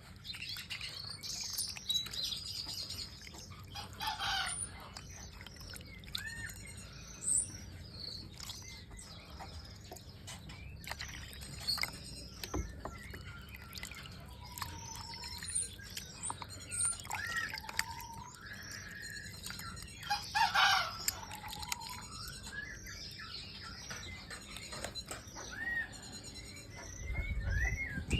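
Several small birds chirping and calling, with short whistled notes that rise and fall, and two louder, harsher calls: one about four seconds in and one about twenty seconds in.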